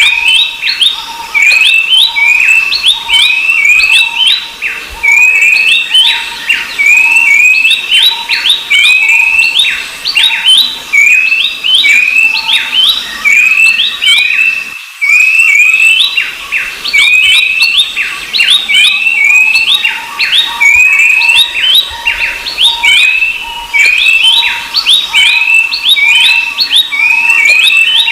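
Babblers singing a busy, loud chatter of quick, downward-slurred whistled notes. The same phrase repeats about every two seconds.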